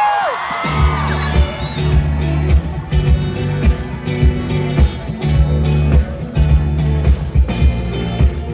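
Live pop band music played loud through the concert sound system. The full band with heavy bass and a steady drum beat comes in just under a second in, after some high gliding tones.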